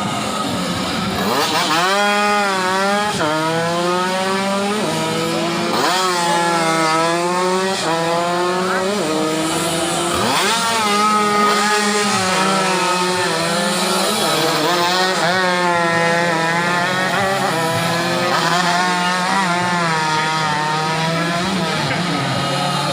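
Several tuned 120cc underbone racing motorcycles at high revs, their engines climbing in pitch through each gear and dropping at every shift, over and over as the bikes race past. A steady low hum runs underneath.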